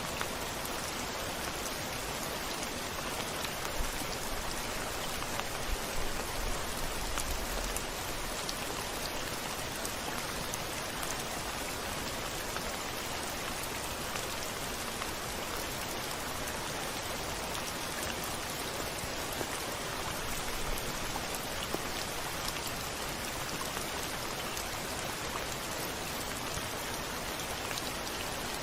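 Steady rain falling, with single drops ticking on a hard surface through the constant wash. A brief low rumble swells about six to eight seconds in.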